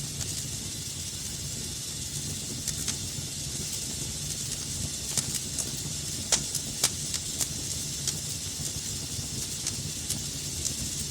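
Wood fire burning in a fireplace: a steady low rumble and hiss with scattered sharp crackles and pops, the loudest two a little past halfway.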